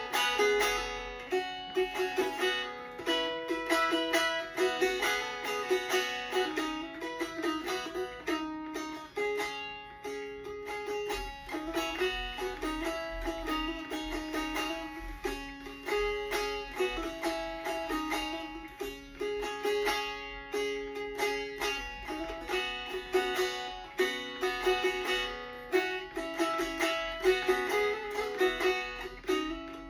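A solo plucked string instrument playing a free melodic improvisation of many quickly picked notes.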